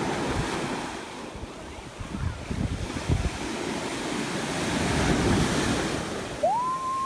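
Ocean surf washing on the beach, with wind buffeting the microphone in low gusts; the wash swells about five seconds in. Near the end a high call starts, rising in pitch and holding.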